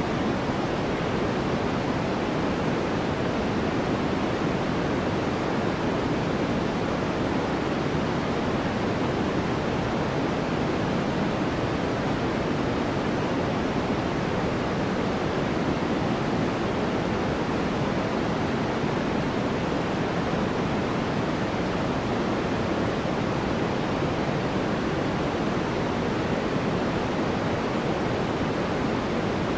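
Steady synthetic white noise played for sleep: an even, unbroken hiss weighted toward the lower and middle pitches and thinning out toward the top, with no change throughout.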